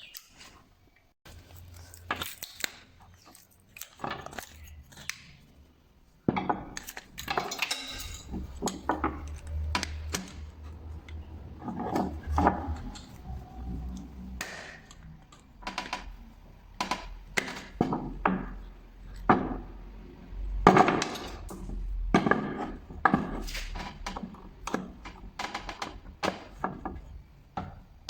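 Irregular metallic clinks and knocks of hand tools working on the parts of a starter motor, as a part held by broken bolts is worked loose.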